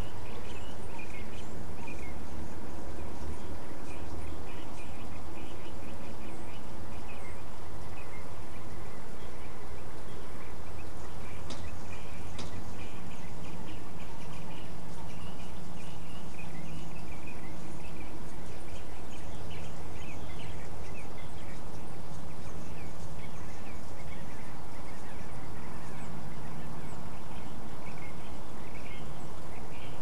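Steady hiss and low hum from a live nest-box camera microphone, with many short bird chirps scattered throughout.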